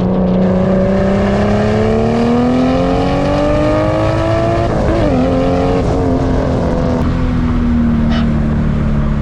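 Mk4 Toyota Supra's turbocharged inline-six accelerating through a gear, its pitch rising steadily for about five seconds. A quick gear change follows, then the engine runs at a steady, slowly falling pitch as the car cruises.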